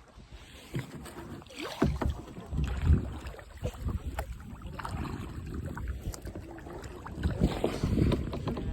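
Kayaks and paddles splashing and knocking in the water in irregular bursts, with wind buffeting the microphone as a low rumble.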